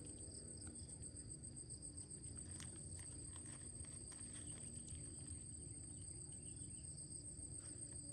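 Insects trilling steadily, one high, fast-pulsing trill and a weaker, lower one, over a faint low rumble with a few soft clicks.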